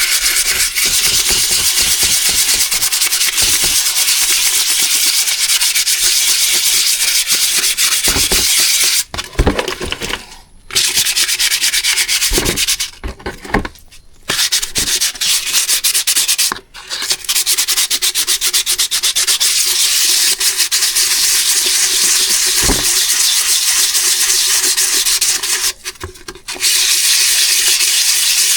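Wet-and-dry abrasive paper scrubbing steadily over the aluminium piston crowns of a Porsche M96 engine to remove hard carbon deposits: a continuous scratchy rubbing, with a couple of short pauses a third and halfway through and another near the end.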